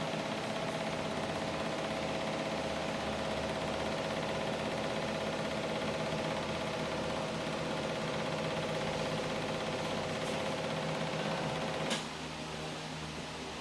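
Small electric motor of a homemade solvent-recirculating pump rig running with a steady hum. A sharp click about twelve seconds in, after which it runs quieter.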